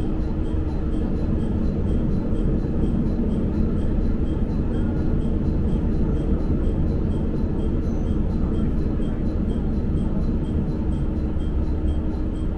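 Sanriku Railway diesel railcar running along the line: a steady low rumble of engine and wheels on rail with a constant hum.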